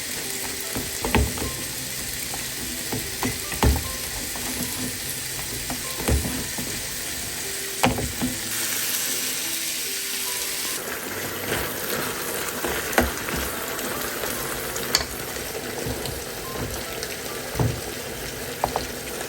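Stir-fry sizzling steadily in a frying pan, with a utensil clicking and knocking against the pan now and then.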